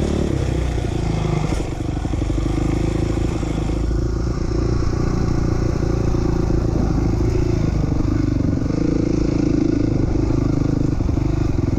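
A 2007 450R dirt bike's single-cylinder engine runs steadily while the bike is ridden, the pitch shifting slightly a couple of times.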